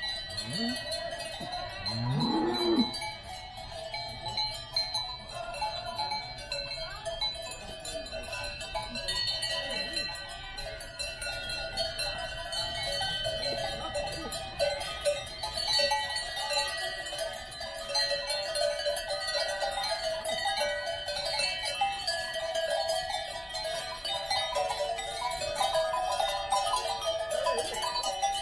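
Many cowbells clanking and ringing together on a herd of cattle walking past, with a brief low call from one of the animals about two seconds in.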